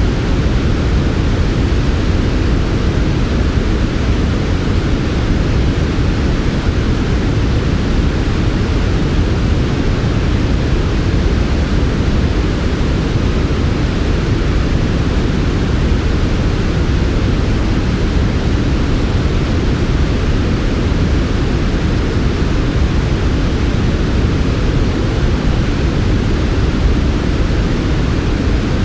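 Steady, smooth synthetic sleep noise: an even, unchanging hiss weighted toward the low end, deep and soft rather than bright.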